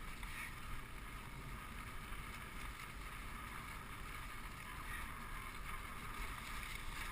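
Dog sled gliding along a snow trail: a steady hiss of the runners over the snow with a low rumble underneath.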